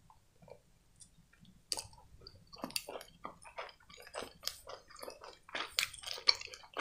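Close-miked chewing of a chocolate candy with a marshmallow-like filling: quiet at first, then from about two seconds in a run of short wet mouth clicks and smacks that grows denser.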